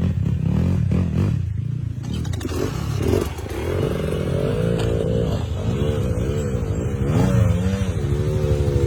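Dirt bike engine being ridden hard, the revs swinging up and down repeatedly, about once a second from a few seconds in, as the throttle is worked over rough ground.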